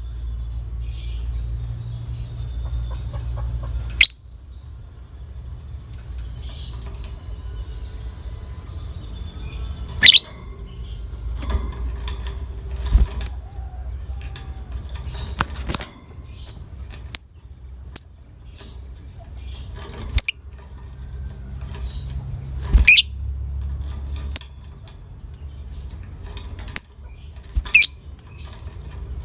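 Lovebird calling: a steady high trill, broken every second or two by sharp short chirps, over a low hum.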